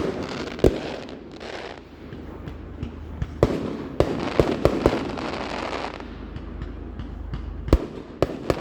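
Fireworks going off: a run of sharp bangs over a steady crackling hiss, with a quick cluster of bangs in the middle and the loudest ones near the start and near the end.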